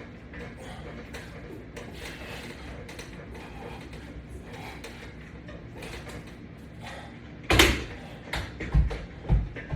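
Low, even background noise, then near the end a loud sharp clack followed by four quicker thumps.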